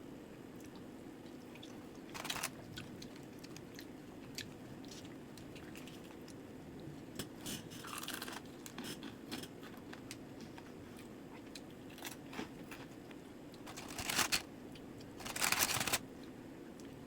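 Close-up eating sounds: crunchy fried chicken being bitten and chewed, with scattered small clicks and a few loud crunches, the loudest near the end, over a steady low background hum.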